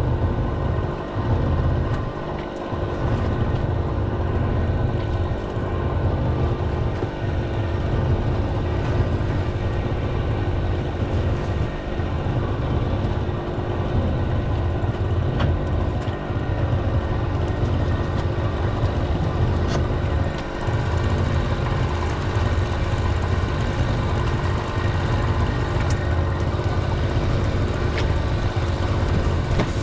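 A small fishing boat's motor running steadily under way, a constant engine drone with a low rumble.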